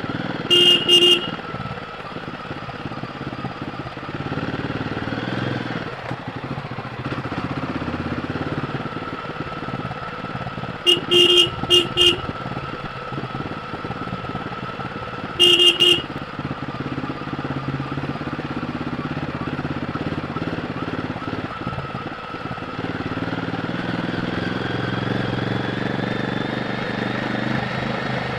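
Royal Enfield Guerrilla 450's single-cylinder engine running under way, its pitch wavering as the throttle changes and getting louder near the end. Short horn toots cut loudly over it: a pair near the start, three quick ones about eleven seconds in, and another pair around sixteen seconds.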